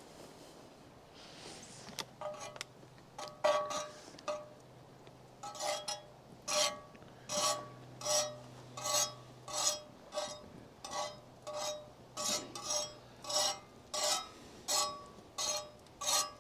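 Metal utensil scraping back and forth on a cast iron griddle in short, regular strokes, about one and a half a second, each with a slight ring, as the griddle is greased before cooking.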